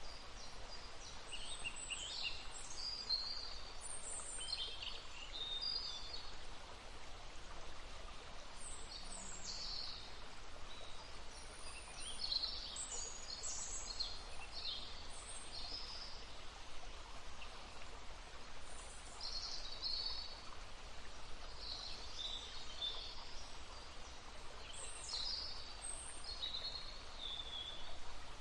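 Songbirds singing in many short high phrases over the steady babble of a small stream.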